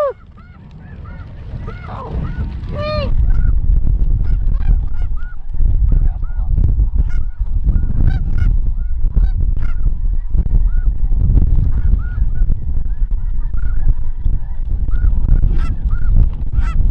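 Many snow geese calling at once: a dense chorus of short, high, yelping honks. Heavy wind rumble on the microphone builds from about two seconds in and stays loud.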